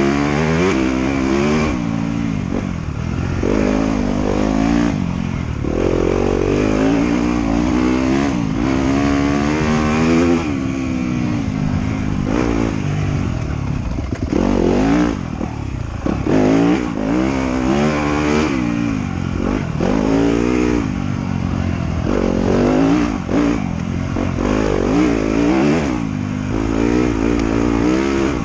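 Motorcycle engine revving up and down again and again as the throttle opens and closes over rough ground, with scattered knocks and clatter.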